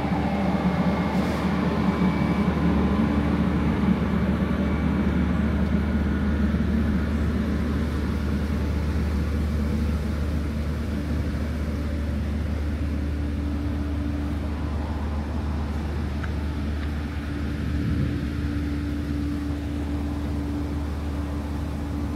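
Steady low mechanical hum from the stationary Ghan passenger train, its onboard equipment running while it stands at the platform. It eases slightly after about ten seconds.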